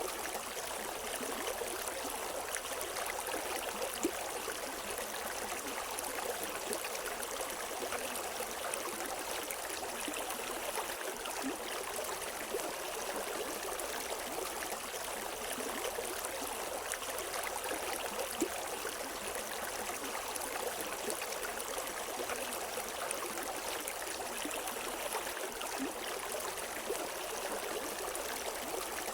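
A shallow river flowing, with a steady rushing and small gurgles and splashes over the rocks.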